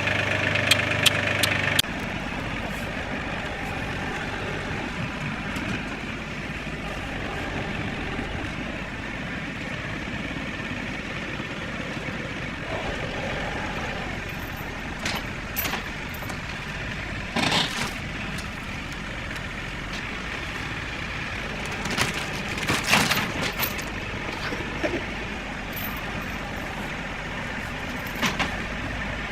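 Challenger MT275 tractor's diesel engine running steadily, its note dropping about two seconds in, with a few short clanks and knocks scattered through.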